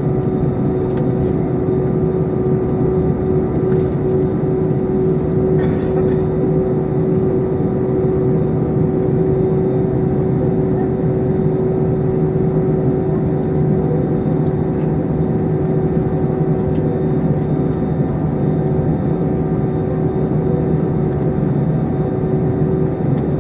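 Steady drone inside the cabin of an Airbus A320 airliner, engines and air conditioning running with a constant hum, under faint passenger chatter. A single light click about six seconds in.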